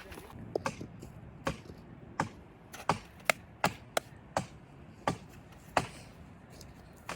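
Repeated chopping with a blade: about a dozen sharp strokes at an uneven pace, roughly one or two a second.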